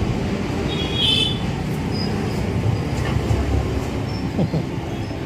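Steady low rumble of nearby road traffic and vehicle engines.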